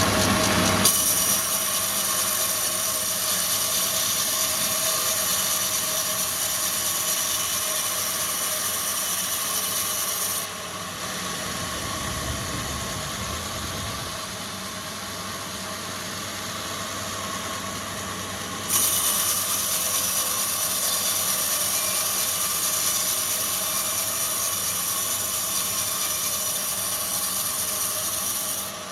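Wood-processing factory machinery running: steady mechanical noise with a constant hum and a high hiss. The sound changes abruptly a few times, dropping lower about ten seconds in and turning brighter again near twenty seconds.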